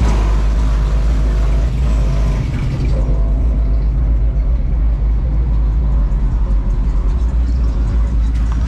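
Car engine running close by, a loud steady low rumble.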